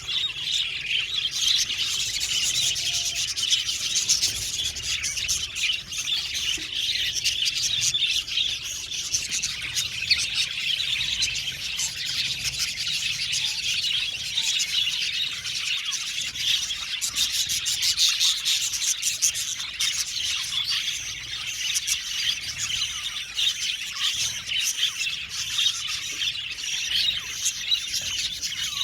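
A flock of budgerigars chirping and warbling together, a dense, continuous chatter of many overlapping high calls.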